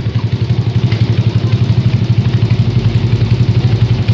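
Yamaha Jupiter Z's single-cylinder four-stroke engine idling steadily with an even, pulsing exhaust note.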